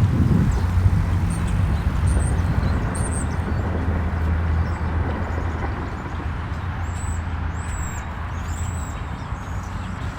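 A motor vehicle's engine running with a steady low hum that slowly fades away, and two clusters of short, high chirps.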